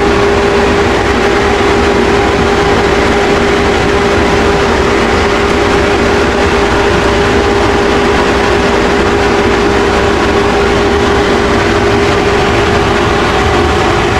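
A machine's motor running loud and steady, a constant hum over an even rush of air noise.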